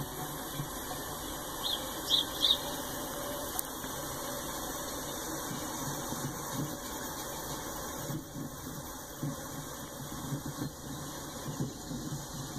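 Norfolk Southern coal train rolling past, its cars giving a steady, uneven low rumble. Three short high squeals come close together about two seconds in.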